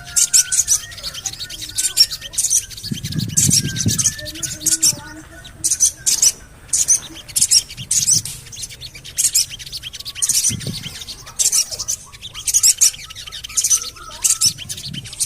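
Sogon bird calling with sharp, high "cuit cuit" chirps repeated in quick clusters, with fainter whistled notes between them.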